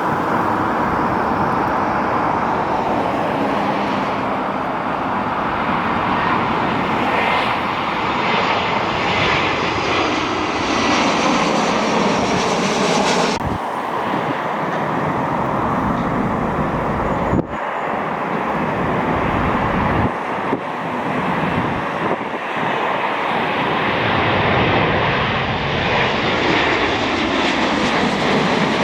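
Jet airliner engines running, a loud steady rush of noise, with a sudden change about halfway through and a brief dip shortly after.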